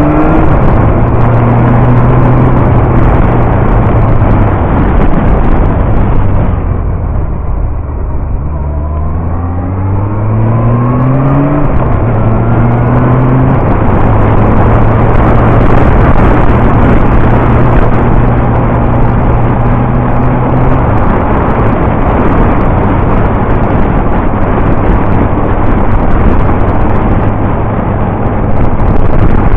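Yamaha R1 inline-four sport bike engine heard from a bike-mounted camera, holding a steady note, easing off about six seconds in, then revving up again as it accelerates and settling back to a steady cruise. Wind rushes over the microphone throughout.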